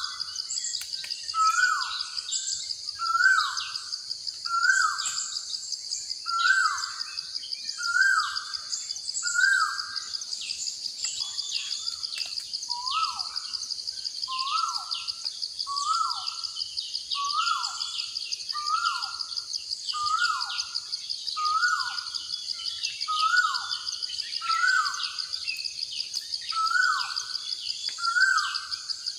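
Nature ambience: a bird repeats a short call that falls in pitch, about every second and a half, with a brief pause near the middle. Under it runs a steady, high, pulsing insect trill, with other faint bird chirps.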